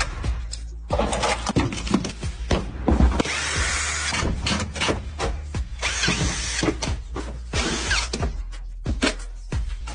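A power tool runs in several short bursts of about a second each, among repeated sharp metallic clicks and knocks, over background music.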